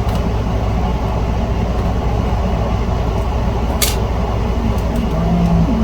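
Steady low hum and rumble of background machinery, with a single sharp click about four seconds in.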